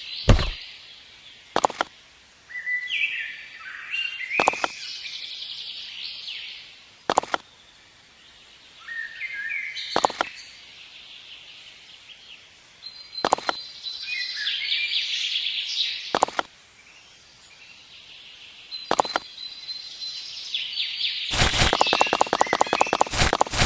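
Birds chirping and calling, with a sharp click every few seconds. Near the end a fast, steady run of clicks or taps begins.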